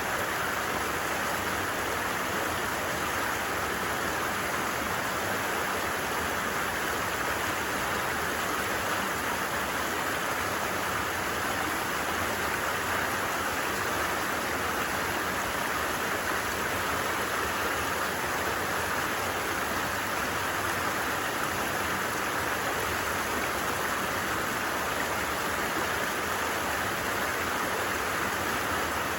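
Stream water flowing steadily: an even, unbroken rushing hiss.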